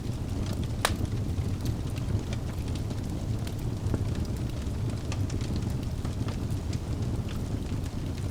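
Wood fire crackling in a fireplace: a steady low rumble of the burning, with frequent irregular sharp pops and snaps, one louder pop about a second in.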